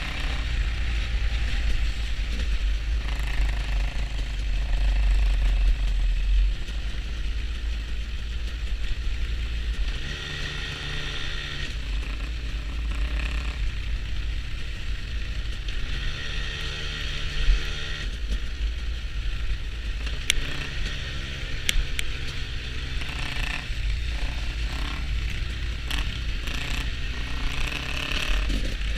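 Motorcycle engine running on the move, with wind noise over it; the engine note rises and falls several times as the speed changes.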